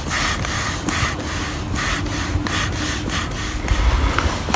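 Air pump inflating a side chamber of an inflatable kayak: rhythmic strokes of rushing air, about two a second. A low rumble grows louder near the end.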